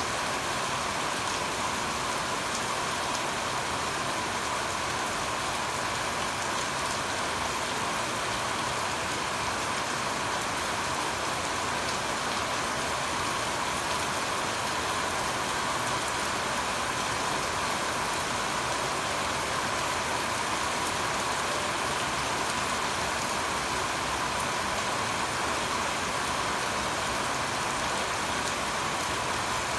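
Steady, even rain falling continuously.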